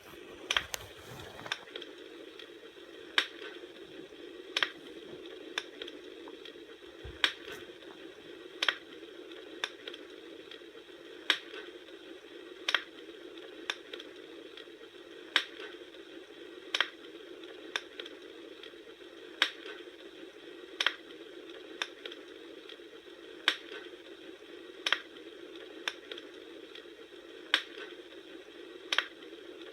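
Campfire burning: a steady low rush with sharp pops of crackling wood, about one every second or so.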